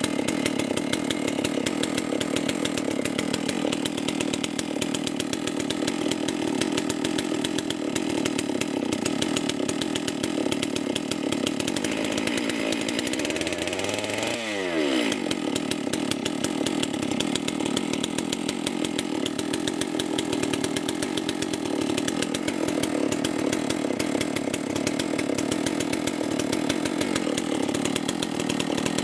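Holzfforma G660 92cc two-stroke chainsaw engine running steadily at speed, with a sharp drop and recovery in pitch about halfway through.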